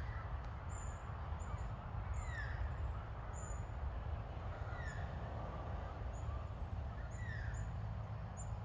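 Australian magpies calling as they chase each other: short calls that slide down in pitch every second or two, with brief high chirps from smaller birds, over a steady low background rumble.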